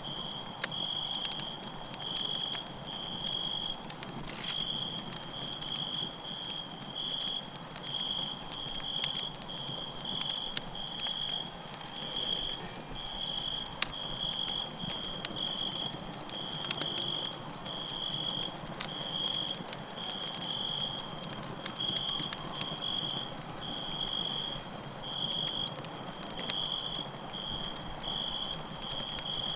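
Campfire crackling with frequent sharp pops over a steady hiss of burning, while crickets chirp in a high, evenly repeated pulse, a little more than one chirp a second.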